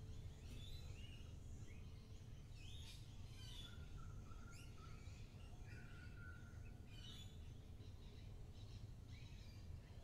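Several birds calling faintly: short chirps and a few longer whistles, some overlapping, over a steady low rumble.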